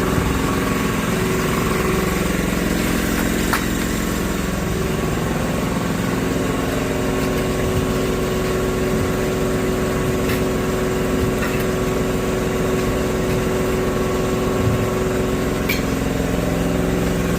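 An engine running steadily at an even idle. Its pitch wavers for the first few seconds, then holds, with a few faint clicks over it.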